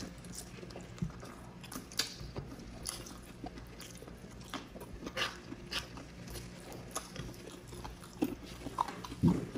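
Two people chewing and biting grilled chicken and pork barbecue, picked up by lapel mics: scattered short mouth clicks and smacks, with a louder one near the end. A low steady hum runs underneath.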